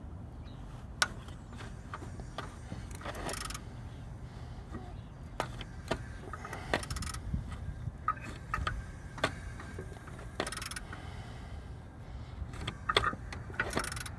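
Scattered metallic clicks, clinks and short rattles from hand work on the engine, over a low steady hum.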